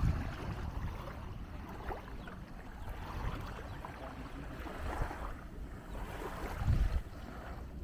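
Wind buffeting the microphone in gusts, with a strong gust near the end, over a faint wash of outdoor background noise.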